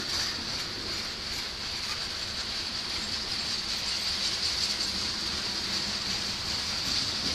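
Freight cars, mostly covered grain hoppers, rolling steadily past on the rails: continuous wheel-on-rail noise with a steady high-pitched hiss over it.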